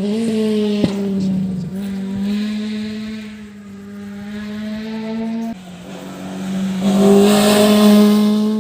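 Rally car engine held at high, fairly steady revs, dipping suddenly about five and a half seconds in, then getting louder near the end as the car comes close, with tyre noise.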